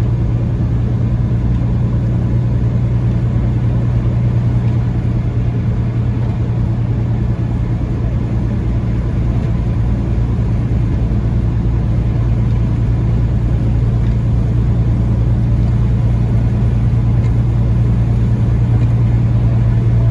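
Peterbilt 579 semi-truck's engine and road noise heard from inside the cab, a steady low drone while cruising on the highway under a heavy load.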